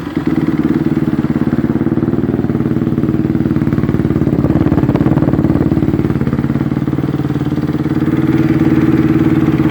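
2013 Honda CRF250R's single-cylinder four-stroke engine idling steadily through a Two Brothers exhaust with an FMF Mega Bomb header, with a fast, even pulse.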